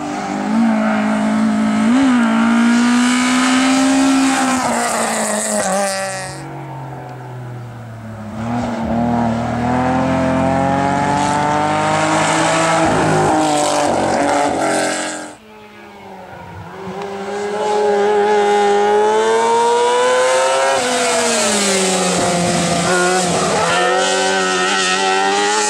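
Racing car engines at full throttle, revving hard, their pitch climbing and dropping with each gear change. The sound breaks off abruptly about fifteen seconds in, and another car's engine builds up and pulls through its gears.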